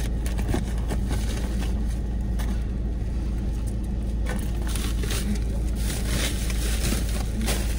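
Car engine idling, a steady low rumble heard inside the cabin. Plastic carry bags rustle and crinkle as they are handled, mostly from about four seconds in.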